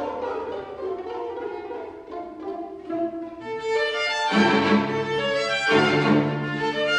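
Chamber string orchestra playing: sustained bowed notes, softer at first, then the full ensemble comes in louder with strong low strings about four seconds in.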